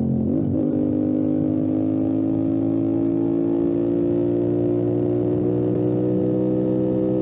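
Motorcycle engine under way: a brief dip in pitch about half a second in as it shifts up a gear, then the engine note climbs slowly and steadily as the bike accelerates.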